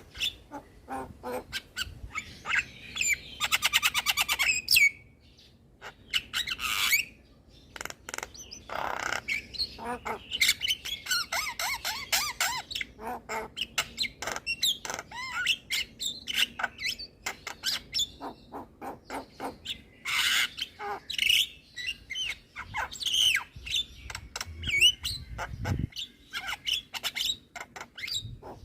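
Javan myna (jalak kebo) singing a long, varied song of harsh squawks, whistles and chatter, with a fast rattling run about three seconds in and a short pause a couple of seconds later.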